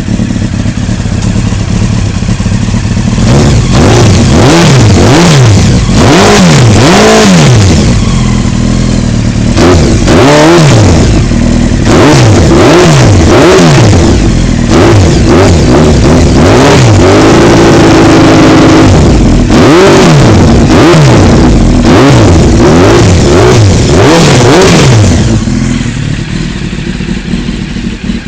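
Honda CBR900RR SC33 inline-four engine revved through its exhaust while standing: idling, then a long series of quick throttle blips that rise and fall, with one rev held for about two seconds past the middle. It settles back to idle near the end.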